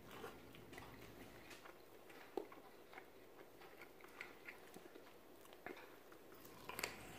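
A person quietly chewing and biting into a smoked chicken wing: faint, scattered clicks of mouth and teeth, a slightly sharper one about two and a half seconds in.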